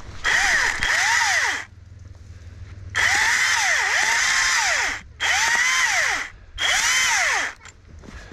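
A saw cutting firewood in four bouts of strokes, the pitch rising and falling with each stroke, about two strokes a second.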